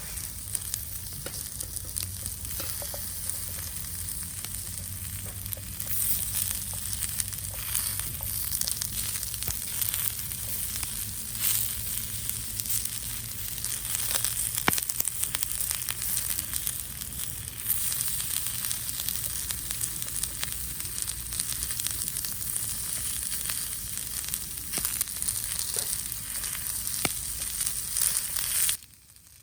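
Chopped green onion and carrot sizzling as they fry in oil in a pan, with a steady hiss and scattered small crackles and pops. The sizzle cuts off abruptly just before the end.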